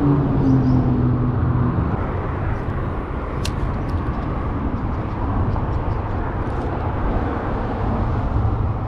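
Steady roar of highway traffic, with one vehicle's engine hum dying away about two seconds in. A single sharp click about three and a half seconds in.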